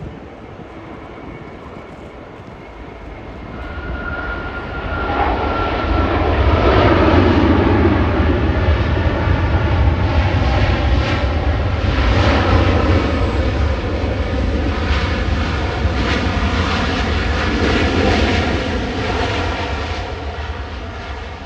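An airliner's engines passing close: the sound builds over a few seconds with a whine that glides down in pitch, becomes a loud, steady rumble with a whine over it, then begins to fade near the end.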